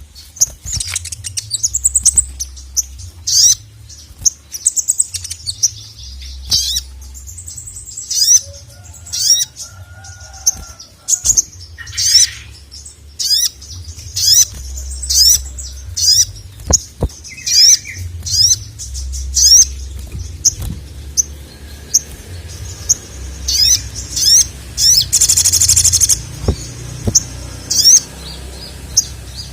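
Little spiderhunter (sogon) calling energetically: a long series of sharp, high, falling chip notes about once a second, sometimes in quick pairs, with a buzzy high rattle about three-quarters of the way through. A low hum runs underneath.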